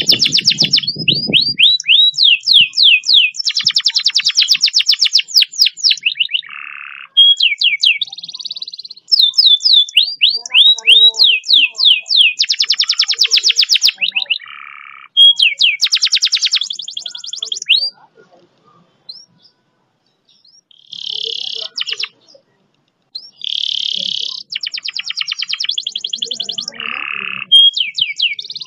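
Domestic canary singing long, fast rolls: trains of rapidly repeated high notes and trills in phrases of a few seconds. The song breaks off for a few seconds about two-thirds of the way through.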